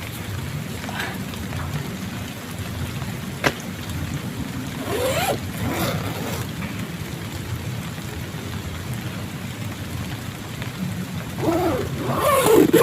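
Heavy rain drumming steadily on a plastic tarp, with one sharp click about three and a half seconds in and two short bursts of rustling, around five seconds and near the end.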